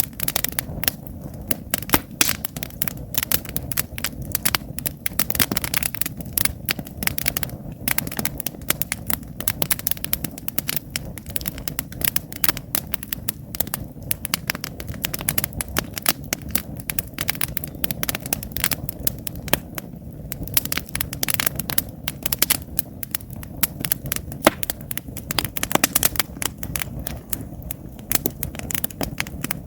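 Wood campfire burning, with rapid, irregular crackles and sharp pops over a low, steady noise of the fire.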